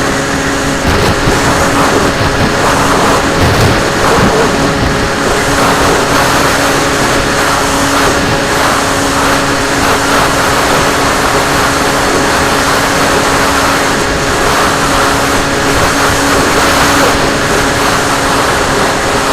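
RC plane's motor and propeller heard from on board in flight: a steady hum holding one pitch under a loud rush of wind.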